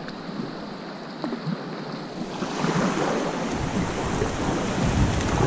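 Rushing river water, a steady wash that grows louder about two seconds in.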